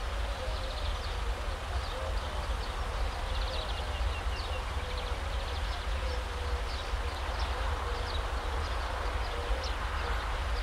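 Songbirds chirping and trilling, with a wavering mid-pitched call running through, over a steady low rumble.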